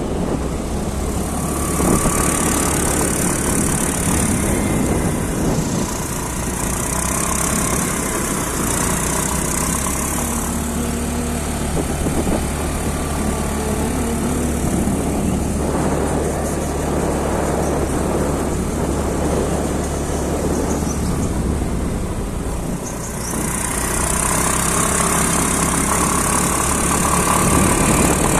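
Motorcycle engine running steadily while riding, under a continuous rushing noise of wind and road.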